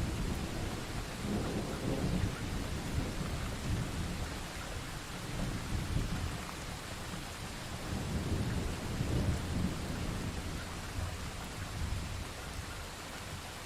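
Thunderstorm: steady rain hiss with rolling thunder rumbling low, swelling and fading several times before easing off near the end.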